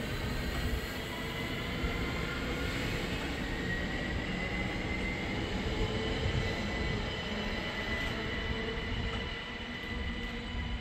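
Train running on the rails: a steady rumble with a thin high whine held over it.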